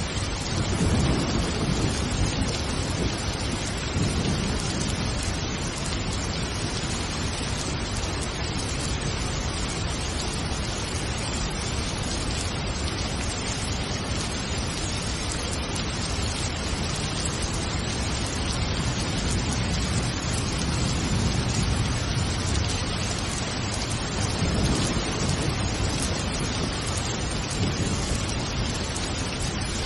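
Steady heavy rain falling, with low rolls of thunder swelling about a second in and again about two-thirds of the way through.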